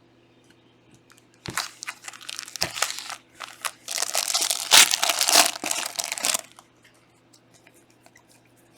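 A Panini Prizm trading-card pack wrapper being torn open and crinkled, from about one and a half seconds in until about six and a half seconds in.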